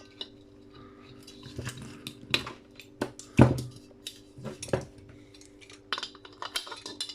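Brass fittings and hand tools clinking and knocking as brass light fittings are worked apart by hand. There are irregular sharp metal knocks, the loudest about three and a half seconds in, with lighter clicks near the end and a faint steady hum beneath.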